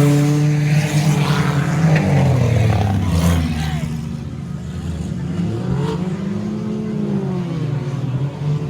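Race car engines revving as cars pass on the track, loudest over the first few seconds, then several more distant engines rising and falling in pitch.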